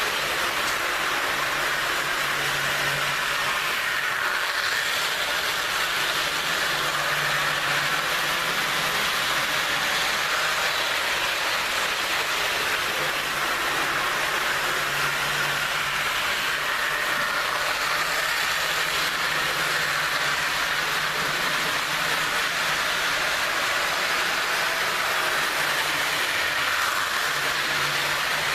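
HO-scale Jouef RTG Turbotrain models running on the track: a steady whirring of the small pancake motor and wheels on the rails, with a low hum that swells and fades every few seconds as the trains go by.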